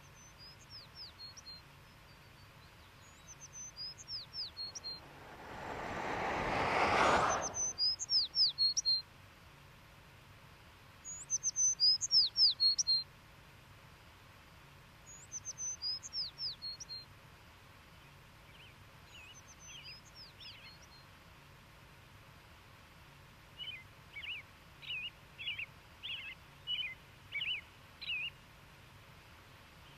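Songbirds singing: one bird repeats a short phrase of high, falling whistled notes every few seconds, and later another gives a run of short chirps, about one and a half a second. About five seconds in, a rushing sound swells for two seconds and cuts off suddenly.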